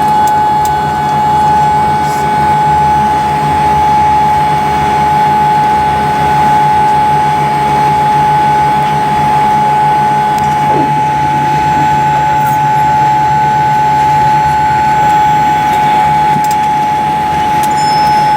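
Steady cabin noise of a parked Boeing 787-8: a constant high-pitched whine over a low hum from the aircraft's air and electrical systems.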